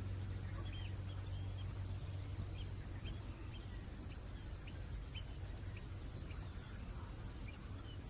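Small bird chirping in short high notes, about two a second, over a low steady rumble.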